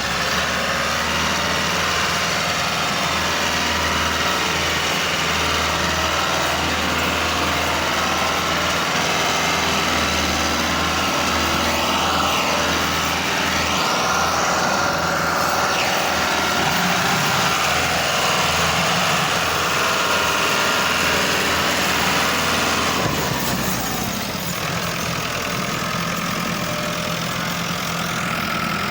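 Ford 5880 tractor engine running steadily with a deep low hum. Near the end the low hum fades and the sound eases slightly.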